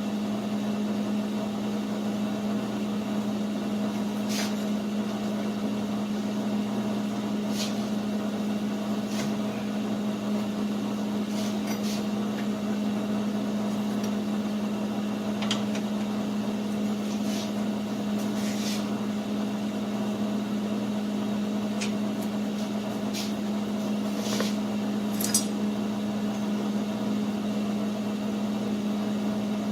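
Steady electrical or machine hum of shop equipment running, with about a dozen light metallic clicks and clinks scattered through it.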